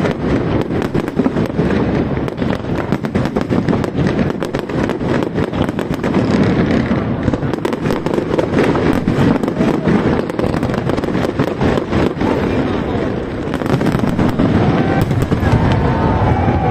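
Fireworks going off, with rapid crackling and popping that is densest over the first six seconds, then a steady din with fewer sharp cracks.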